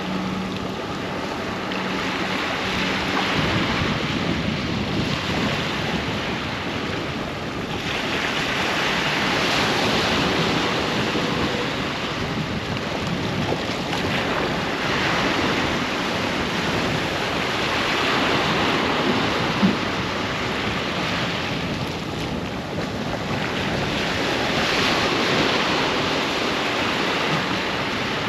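Ocean waves breaking and washing up on the beach, a steady roar of surf that swells three times as larger waves come in.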